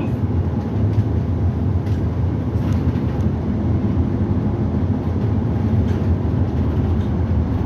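City bus running, heard from inside the cabin: a steady low rumble of engine and road noise.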